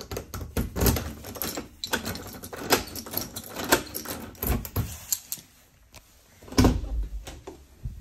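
Keys jangling and a key working the lock of a metal door: a run of small clicks, scrapes and rattles, then a louder clunk about six and a half seconds in as the lock turns or the door opens.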